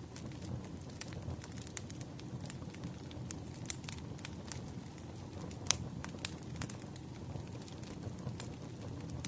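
Wood fire crackling: a steady low rumble with scattered sharp pops and snaps, one louder pop a little past halfway.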